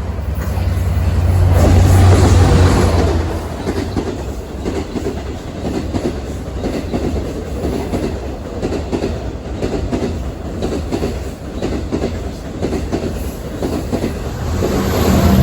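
Long Island Rail Road train passing close by: a loud rumble as the front of the train goes past about two seconds in, then a steady, rhythmic clickety-clack of wheels over rail joints as the cars roll past, swelling again near the end.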